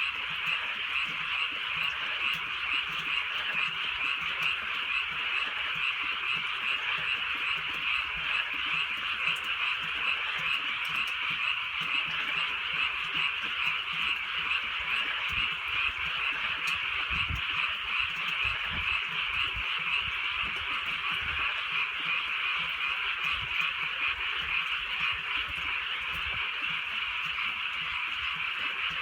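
A dense chorus of many frogs calling continuously at night, an unbroken, steady wall of croaking.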